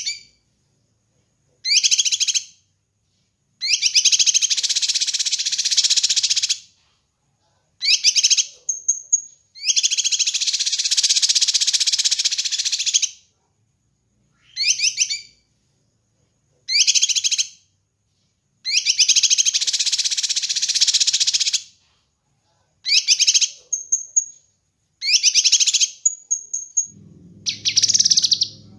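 Kinoi bird singing: short bursts of notes alternate with longer, rapid rattling phrases of about three seconds, separated by silent pauses, with a few brief high whistles between them. Near the end a low hum comes in under the song.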